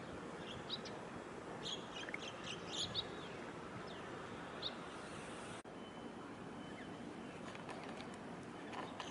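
Steady open-air background noise with small birds giving short high chirps, clustered in the first few seconds and once more a little later.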